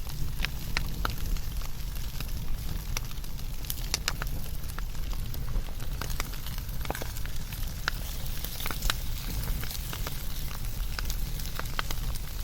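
Wood fire burning with irregular sharp crackles and pops over a steady low rumble and hiss.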